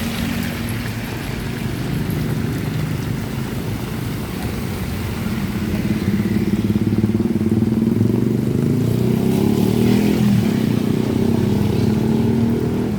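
Motorcycle engines running in street traffic close by, getting louder about halfway through, with the engine pitch shifting as one goes past.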